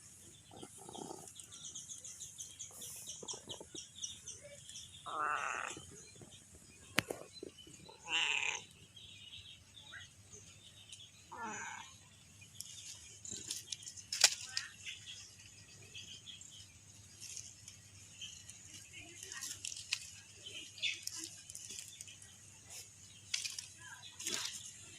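Domestic cat meowing three times, short calls several seconds apart, among faint high chirps and a few light clicks.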